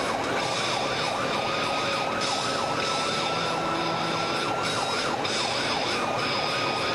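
Police cruiser siren in its fast yelp mode, pitch sweeping rapidly up and down over and over, with a steady high tone alongside and road noise beneath.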